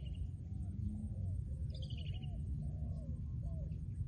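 Spotted dove cooing: a run of short, arched coos, about two a second. A brief descending high trill from a smaller bird cuts in about two seconds in, over a steady low rumble.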